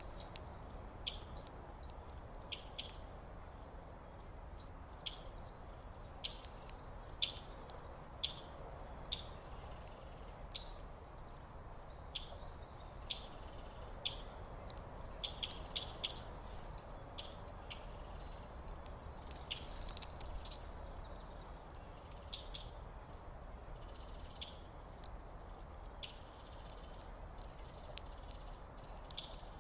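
Small birds' short, high chip calls, repeating irregularly about once every second or two and sometimes in quick clusters, over a faint steady background hiss.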